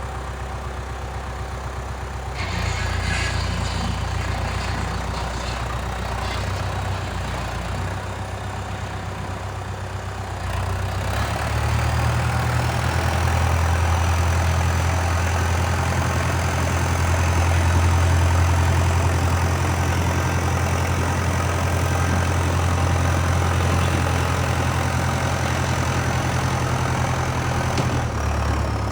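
Diesel engine of a Valtra 815 backhoe loader running steadily, picking up about two seconds in and again after about ten seconds, when a high steady whine joins it; it eases off near the end.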